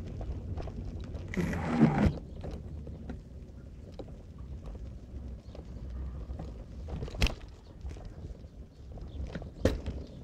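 Car driving, a steady low road rumble with a few sharp knocks from bumps in the road, one about two seconds in and two more near the end.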